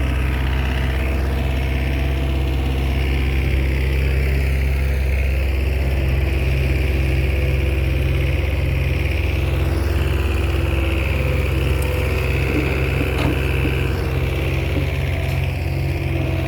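Komatsu crawler bulldozer's diesel engine running steadily, with a few faint metallic clinks about three quarters of the way through.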